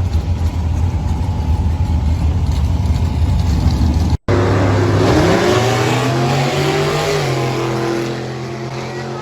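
Gasser drag car engine rumbling with a rough, choppy beat. After an abrupt cut about four seconds in, an engine revs up, its pitch rising over a second or two, then holds a steady higher speed and fades toward the end.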